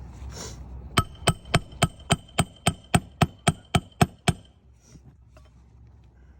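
Hammer driving a nail: thirteen quick, evenly spaced strikes, about four a second, each with a metallic ring, stopping after about three seconds.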